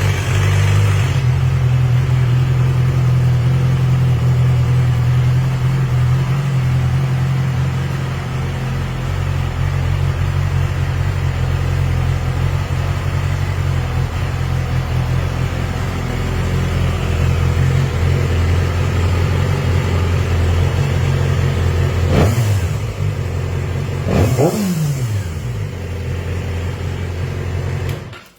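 Yamaha YZF-R6's 599 cc inline-four running through its stock exhaust, settling from a fast idle into a steady idle just after starting. Near the end it is blipped twice with short revs, then it cuts off suddenly as the engine is switched off.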